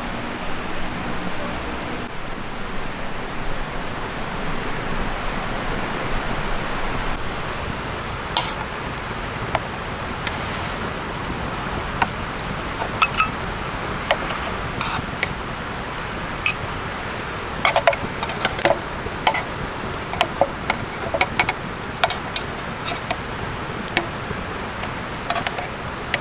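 Wood campfire crackling: irregular sharp pops over a steady hiss, the pops coming thick and fast from about eight seconds in.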